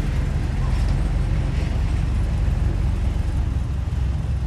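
Heavy diesel earthmoving machinery running steadily with a deep engine rumble, with a brief high squeak about a second in.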